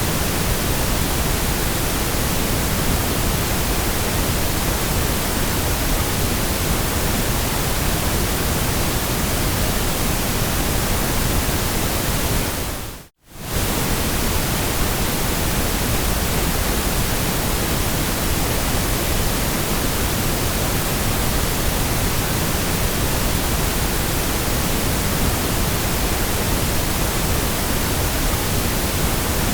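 Steady white noise, an even hiss with no tones in it. About 13 seconds in it fades out to near silence for a moment and comes straight back.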